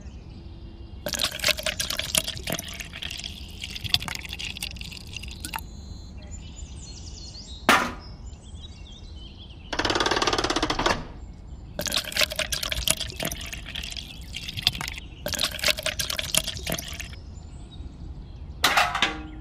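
Wet cement slurry being poured and sloshed into a small tin pail in several splashing bursts, with one louder steady pour of about a second near the middle.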